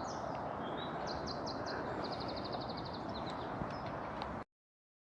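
Woodland birdsong: several short, rapid trills of high repeated notes over a steady outdoor hiss. It cuts off abruptly to silence about four and a half seconds in.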